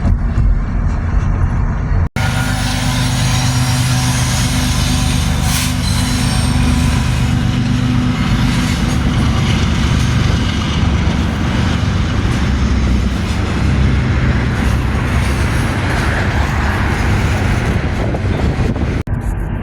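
A diesel-hauled train passing: steady low engine drone and the rumble and hiss of wheels on rails. The sound drops out for an instant about two seconds in and again near the end.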